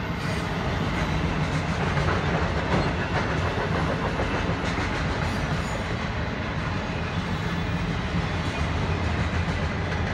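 Freight train of autorack cars rolling past: a steady rumble and clatter of steel wheels on the rails.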